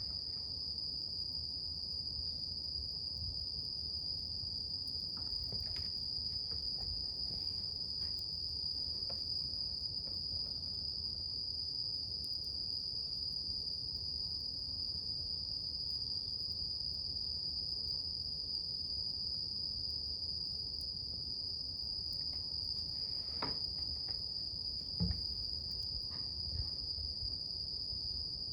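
Insects trilling steadily on one high pitch, over the soft low rumble of a campfire. Scattered small crackles come from the fire, with a sharper pop near the end.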